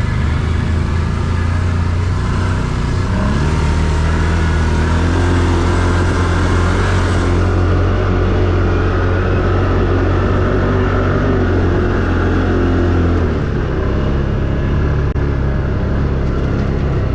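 Quad bike (ATV) engine running steadily under load, its pitch rising a little about three seconds in and dropping off near the end.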